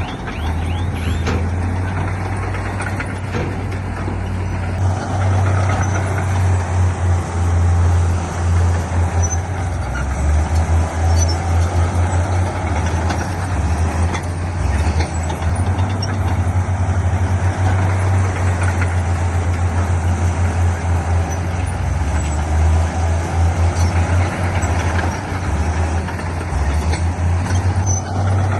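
Diesel engine of heavy earthmoving machinery running hard under load, a deep drone that pulses and surges unevenly.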